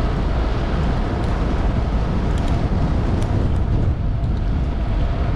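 Loud wind buffeting the microphone over a low, steady rumble, with a faint steady hum running through it.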